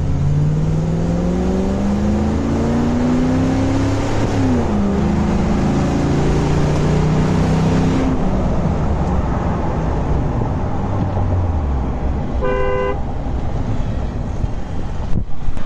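Land Rover Defender's swapped-in Corvette LS3 V8 accelerating, heard from inside the cabin. Its pitch climbs, drops at a gear change about four seconds in, climbs again, then falls away as the car eases off. A vehicle horn toots once, briefly, near the end.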